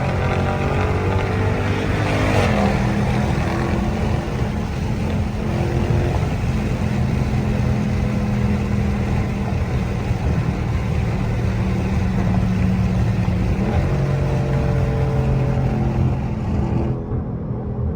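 A 392 (6.4-litre) HEMI V8 running under way, heard from the driver's seat. Its pitch shifts about three seconds in and again near fourteen seconds, and the higher part of the sound drops away suddenly just before the end.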